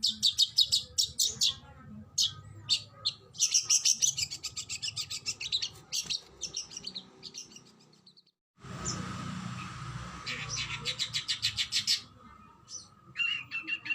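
Oriental magpie-robin (kacer) singing in fast runs of sharp, high repeated notes, fired off in rapid bursts. The sound drops out briefly a little after eight seconds in, then the rapid runs resume over a light hiss.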